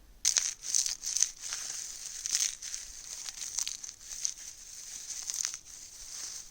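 Ferrocerium fire steel being scraped to light a bundle of bark and small sticks: a run of short, high rasping scrapes, several close together in the first second and then more spread out.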